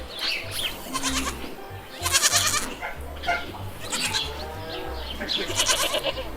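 Peacock (Indian peafowl) calling with loud, harsh, wailing cries, repeated several times and loudest about two seconds in and again near the end, over background music with a low, pulsing beat.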